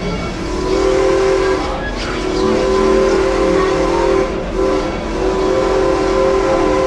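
Heritage steam locomotive's whistle blowing a multi-note chord in three long blasts, with short breaks between them.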